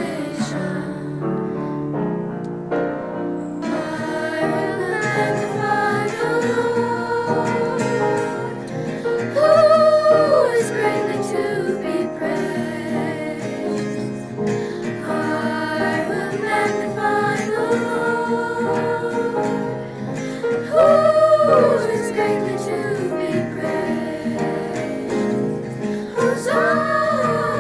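A choir singing a sacred song over instrumental accompaniment, with high held notes about ten and twenty-one seconds in.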